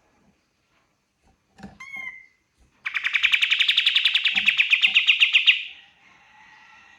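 A kapas tembak songbird singing in full voice. A couple of short call notes come about one and a half seconds in, then a loud, fast rattling trill of about eleven notes a second runs for nearly three seconds and fades.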